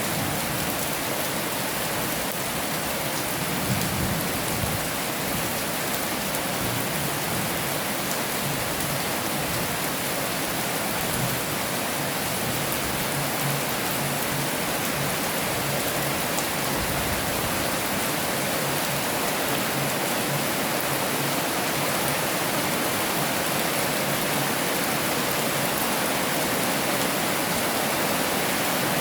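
Heavy rain falling steadily, with a brief low rumble about four seconds in and another around the middle.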